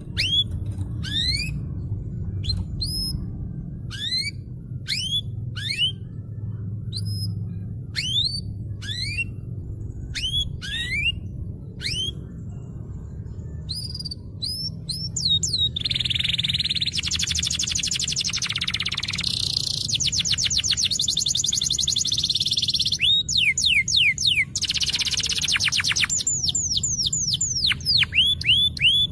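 Domestic canary singing: at first single chirps that sweep upward, about one a second, then from about halfway a continuous song of fast trills and rolls mixed with rising whistles.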